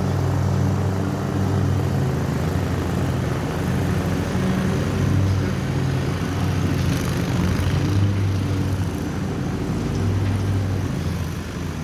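Lawn mower engine running steadily, a low drone whose tone and loudness waver a little.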